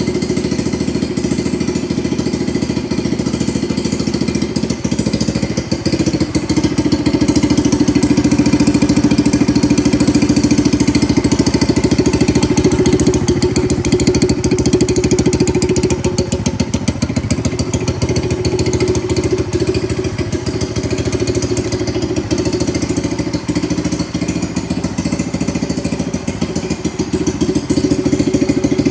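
Honda Chaly 50's single-cylinder four-stroke engine running through an aftermarket muffler, a steady idle with a quick exhaust pulse. It runs louder for several seconds from about six seconds in, then settles back.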